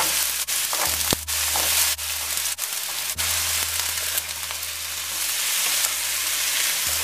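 Cubed pumpkin sizzling steadily in hot oil in a nonstick wok, stirred and turned with a wooden spatula.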